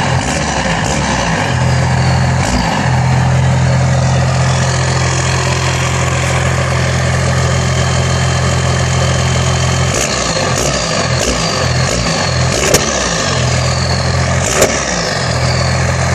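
Turbodiesel pickup engine idling steadily, revved briefly near the start and then several times in quick succession in the second half. After each rev a high turbo whistle falls in pitch. Two sharp clicks come near the end.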